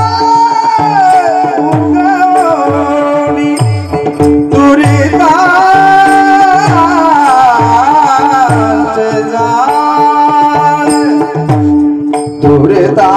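Marathi devotional bhajan music. A wavering sung melody runs over a steady drone, with an even beat of low hand-drum strokes, each stroke sliding down in pitch.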